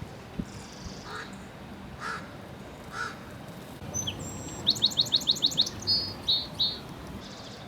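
A crow cawing three times, about a second apart, then a small songbird singing a quick, high trill of rapid notes ending in a few separate notes.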